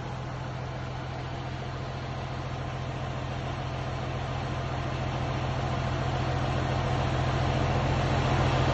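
Komatsu SAA6D170E-5 six-cylinder turbocharged diesel engine running at a steady speed, growing steadily louder.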